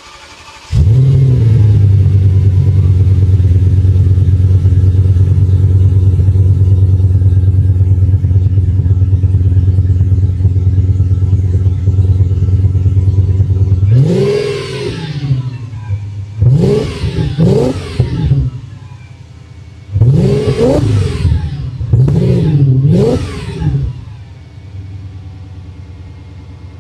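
Audi V10 engine with a Milltek exhaust cold-starting about a second in, flaring briefly and settling into a steady, loud fast idle. About halfway through it is blipped in about six short revs, each rising and falling in pitch, then drops back to a quieter idle near the end.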